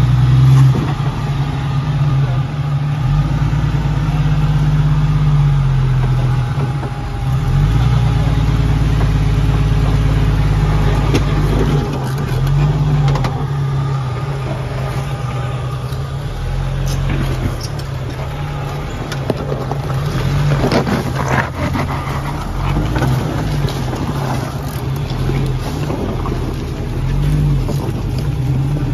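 Jeep Cherokee's engine running under changing throttle as it crawls over rocks, with sharper knocks and scrapes about two-thirds of the way through.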